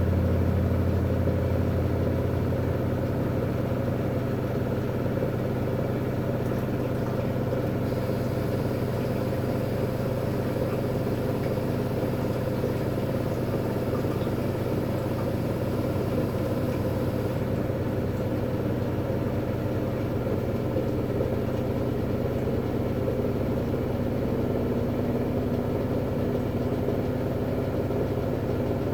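A 2011 V-Zug Unimatic SL washing machine running steadily with an even motor hum. It eases down slightly in the first couple of seconds and then holds steady.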